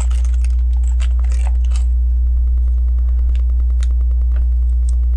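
A steady low hum runs throughout. Over it come a few light, scattered clicks of small plastic LEGO pieces being handled and pressed into place.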